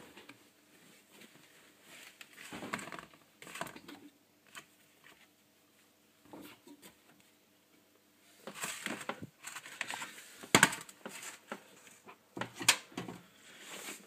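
Intermittent rustling and crinkling of hands handling things, with scattered knocks and a sharp click about ten and a half seconds in; busier in the second half.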